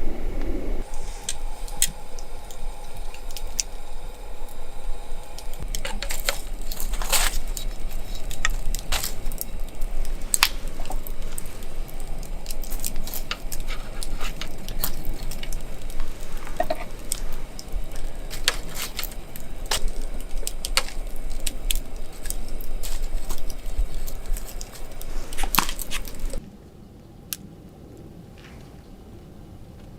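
Campfire crackling, with irregular sharp pops over a low rumble; it cuts off suddenly a few seconds before the end, leaving a much quieter background.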